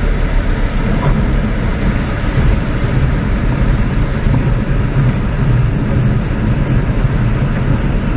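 Light aircraft's piston engine and propeller heard from inside the cockpit: a loud, steady drone with no change in pitch.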